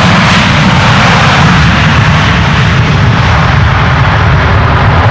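Boeing 747 freighter's four jet engines running at high thrust close by: a loud, steady roar with no letup.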